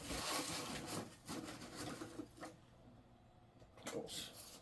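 Faint rustling and light knocks of small items being handled and moved around on a desk, busiest in the first second, with a brief rustle again near the end.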